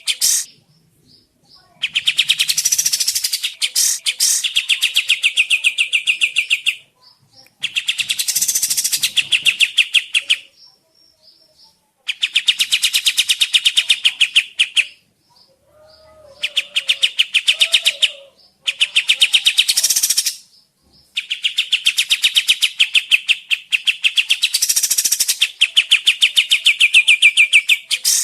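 Kapas tembak songbird singing: about six long trilling bursts of very rapid repeated notes, each a few seconds long, with short pauses between.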